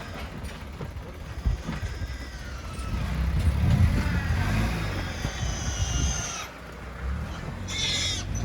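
A truck's engine running, with high gliding squeals over it, typical of pigs being loaded, and a short sharp high burst near the end.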